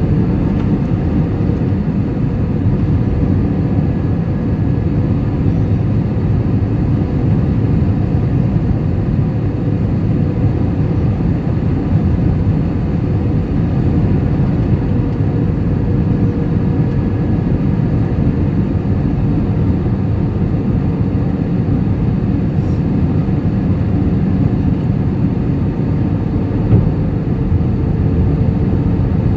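Steady airliner cabin noise: the low rush of airflow and jet engines heard from inside the cabin, with a faint steady hum above it.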